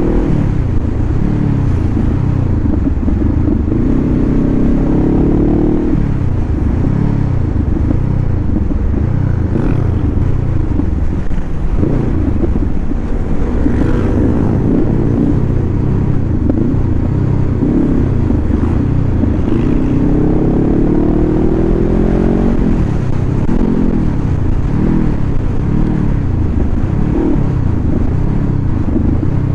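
Honda CBR500R's parallel-twin engine heard from the rider's seat, riding through curves. Its pitch keeps rising and falling as the rider opens and closes the throttle, with a longer climb about twenty seconds in.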